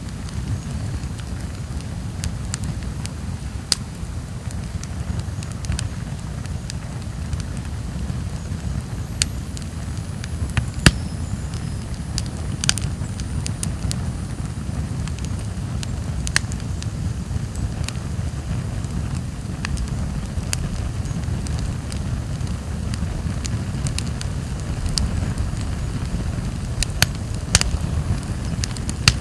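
Wood fire burning, with a steady low rumble and scattered sharp crackles and pops from the burning logs.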